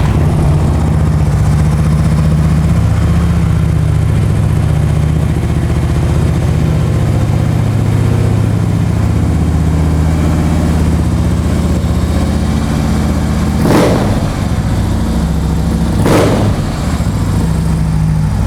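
2008 Harley-Davidson Ultra Classic's 96-cubic-inch V-twin idling steadily through S&S mufflers, with two short throttle blips near the end.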